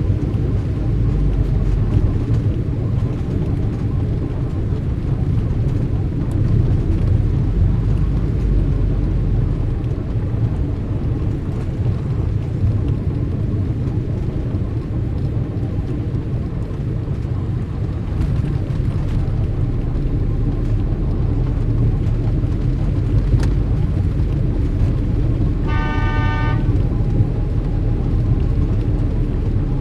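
Steady rumble of street traffic, with one short car horn honk near the end.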